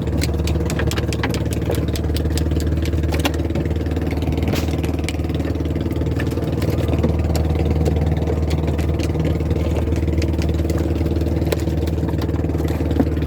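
Small fishing boat's engine idling steadily, with scattered sharp clicks and knocks over it, most of them in the first few seconds.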